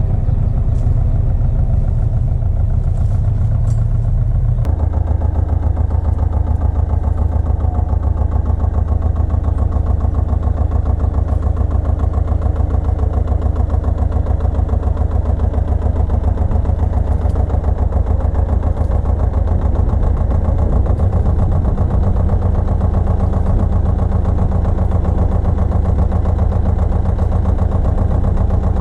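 Pasquali 980 EX small tractor's engine running steadily with an even pulsing beat, its note changing about four and a half seconds in.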